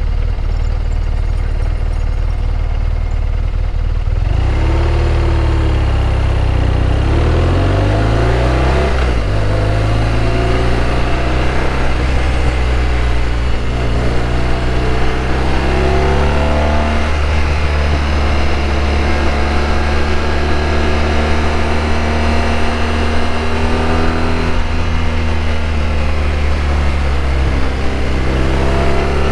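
BMW R1200RT's boxer-twin engine under way on the road, heard with wind rush. For the first few seconds the engine note is low and subdued; about four seconds in it picks up and rises in pitch as the bike accelerates, then holds a steady cruising note with small rises and falls.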